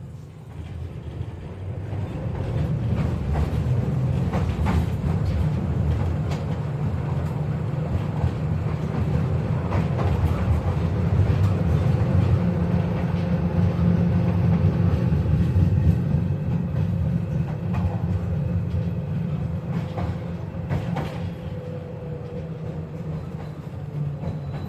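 KTM-5M3 tram running along the track, heard from inside the car: a heavy low rumble of wheels on rails with scattered clacks and knocks from rail joints. It builds up over the first dozen seconds and eases off toward the end, with a faint whine that falls in pitch near the end.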